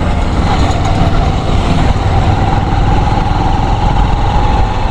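Wind and road noise on a moving motorcycle, with heavy low rumble. Over it runs a steady whine that rises slightly in pitch and fades out near the end.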